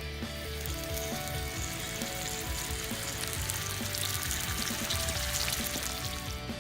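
Bacon and eggs sizzling and spitting in a frying pan over a campfire, louder in the middle and later part, over background music.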